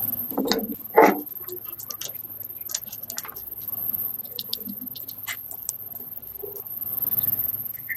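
Hand tools and small metal parts being handled: scattered light clicks and taps, with two louder knocks about half a second and a second in.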